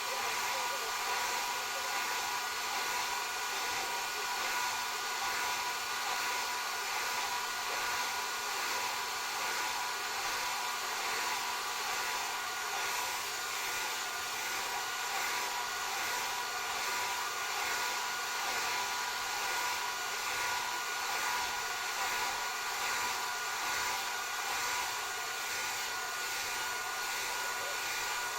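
Hand-held hair dryer blowing steadily, a constant rush of air with a faint steady whine from its fan motor.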